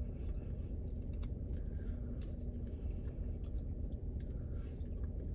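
Chewing and small mouth sounds as mac and cheese is eaten, with faint clicks of a plastic spork, over a steady low hum.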